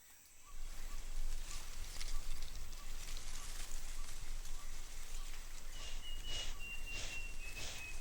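Rainforest rain falling steadily on foliage, starting abruptly about half a second in as a dense hiss with scattered drip-like ticks. Near the end a high, thin, held call sounds over it, falling slightly in pitch.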